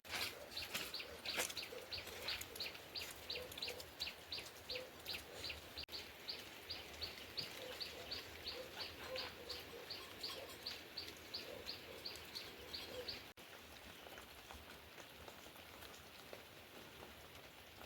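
A bird calling in a fast, even series of short high chirps, about three a second, that stops about thirteen seconds in, over steady rain.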